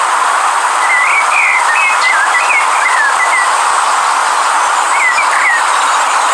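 A river rushing steadily, with a songbird singing short warbled phrases about a second in and again about five seconds in.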